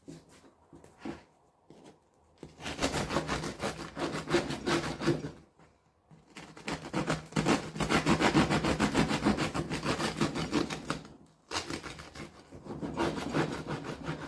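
Rapid rasping back-and-forth strokes in three bouts: the first about three seconds long, the middle one about five seconds and the loudest, and the last about three seconds.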